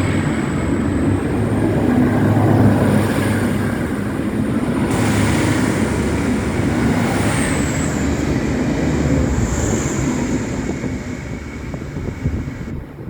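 Diesel passenger railcar set pulling out of the station and running away down the line: a steady engine and wheel rumble with a thin high whine that drops in pitch about seven seconds in, the sound fading near the end.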